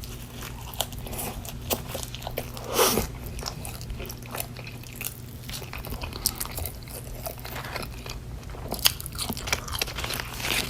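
Close-miked chewing and biting of fast food, with wet mouth sounds and crisp crunches; one louder crunching bite comes about three seconds in. A low steady hum runs underneath.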